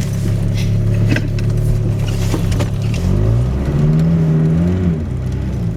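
1991 Chevy S10's 2.5-litre four-cylinder engine running under load while driving out of deep snow. It revs up about three seconds in, holds higher for a second or so, then drops back. Scattered clicks and knocks come in the first half.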